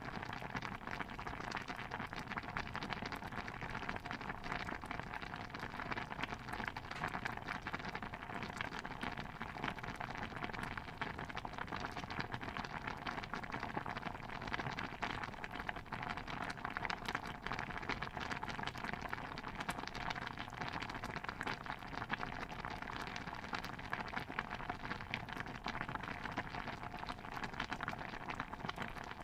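Stew bubbling in a pot: a steady, dense patter of small pops.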